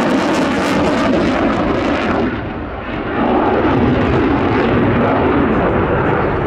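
Eurofighter Typhoon FGR4 fighter jet's twin EJ200 turbofans, a loud steady jet noise from the flying display. It dips briefly about two seconds in, then comes back up.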